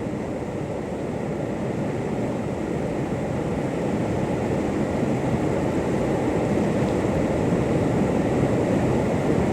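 Rushing whitewater of a mountain river rapid: a steady roar of water that slowly grows a little louder.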